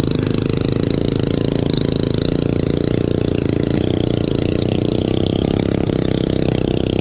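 Single-cylinder motorcycle engine running at a steady low speed, its exhaust pulsing fast and evenly, with no revving.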